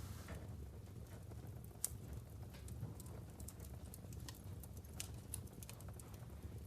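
Wood fire burning in a fireplace: logs crackling with irregular sharp pops over a low steady rumble of the flames, one pop standing out about two seconds in.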